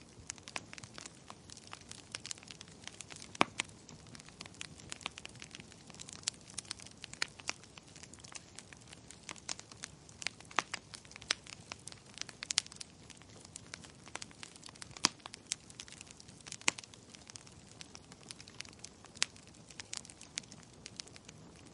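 Wood fire crackling: irregular sharp pops and snaps, several a second with a few louder ones, over a soft low rush of burning.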